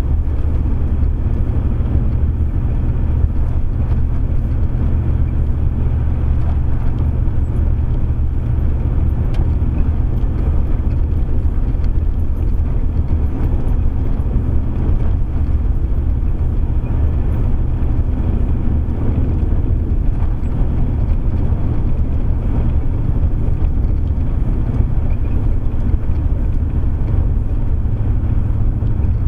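Steady in-cab drone of a GMC's 305 V8 cruising, with tyre noise from the packed-snow road, heard from inside the vehicle. The low rumble holds even, with no revving or gear changes.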